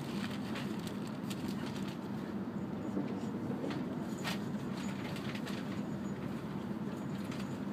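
Steady cabin running noise of an E5 series Shinkansen at speed: an even rumble with a low hum, and a few light clicks, the sharpest a little past the middle.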